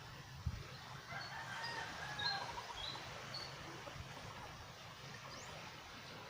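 A rooster crowing once, for about two seconds starting about a second in, with a few short high chirps from small birds over it and a soft thump just before, against a steady background hiss.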